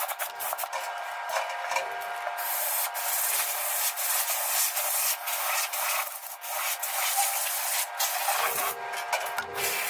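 Rasping, scraping noise of a metal part being worked by hand with an abrasive, in uneven strokes with short breaks. It grows louder about two seconds in.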